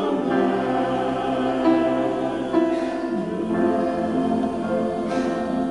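Church choir singing slow, sustained chords, with a wavering vibrato on a held note near the end.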